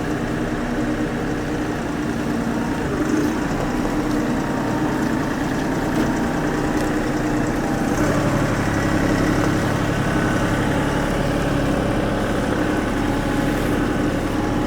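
Tractor engine running steadily, its note shifting deeper and slightly louder about eight seconds in as it takes on more load.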